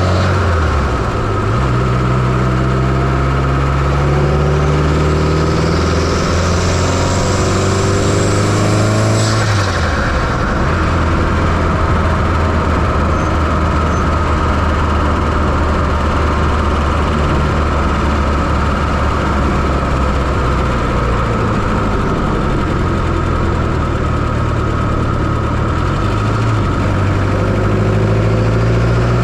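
Fiat Coupe 2.0 16V turbo engine heard from the engine bay, pulling up through the revs with a rising turbo whistle, then dropping sharply about a third of the way in as the throttle is released. It runs steadily after that and starts climbing again near the end.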